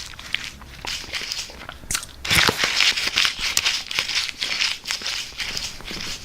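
Dry, crisp chips being crunched and chewed close to the microphone, a dense crackling run of small crunches that grows louder about two seconds in.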